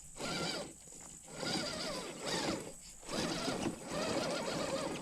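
Redcat Gen8 V2 RC rock crawler's electric motor and geared drivetrain whining in short bursts of throttle, about five pulses, the pitch rising and falling with each one.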